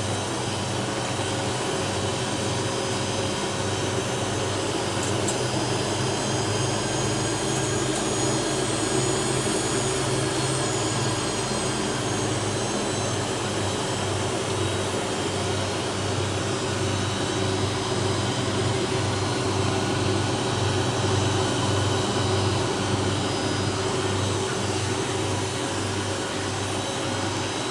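Hawker 800 business jet's turbofan engines running before takeoff, heard from inside the cabin: a steady rush with thin high whining tones over a low pulsing hum.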